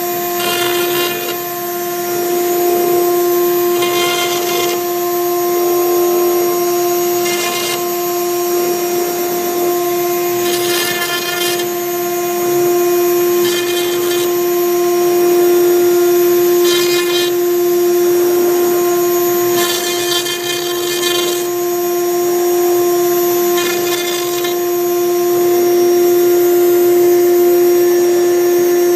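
6090 CNC router's spindle running with a steady whine while a V-bit engraves MDF, with short bursts of harsher, higher-pitched noise recurring about every three seconds.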